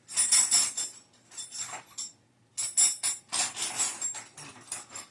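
Metal hand tools jangling and clinking in several bursts as someone rummages through a tool bag for a wrench.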